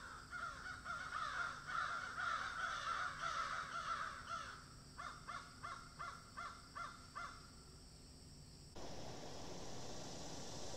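Birds calling: a dense run of harsh, chattering calls, then a string of separate calls at about three or four a second that stops about two-thirds of the way through. After a cut, a steady rushing noise.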